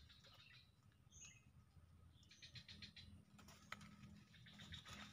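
Near silence with a few faint, short bird chirps and a quick run of high ticks about two and a half seconds in.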